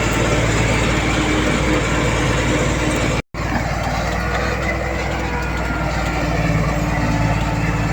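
Heavy diesel earthmoving machinery running steadily. The sound drops out completely for a moment about three seconds in, then resumes.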